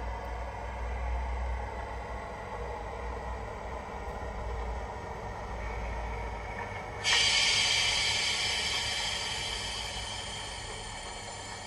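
Recorded Class 56 diesel locomotive sounds played through a model locomotive's small speaker: the engine runs low and steady, then about seven seconds in a sudden loud air hiss bursts out and slowly fades.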